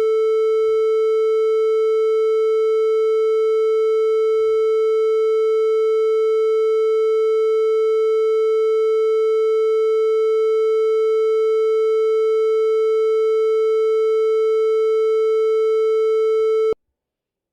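Triangle wave from a DAW tone generator, held steadily on the note A (about 440 Hz): a soft, pure-sounding tone with odd harmonics only. It cuts off abruptly near the end.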